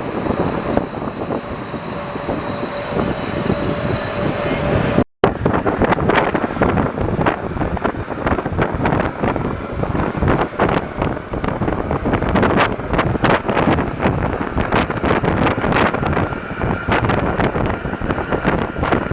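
Alstom NS-74 rubber-tyred metro train running: a steady rush with a faint high tone at first. After a brief cut about five seconds in, it turns to dense, irregular rattling and clatter.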